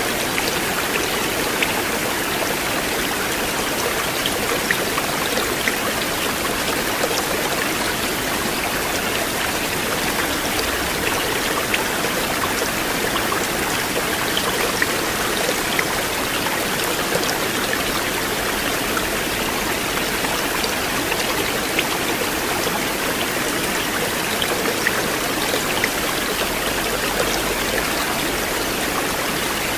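River water flowing in a steady, even rush, with small splashes and drips ticking through it.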